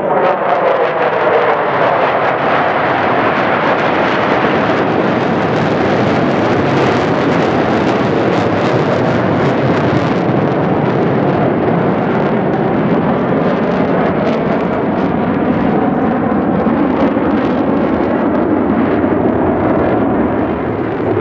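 Mitsubishi F-2A fighters' single GE F110 turbofan engines roaring as they fly by, with a whine that falls in pitch in the first couple of seconds, then a heavy, steady jet roar.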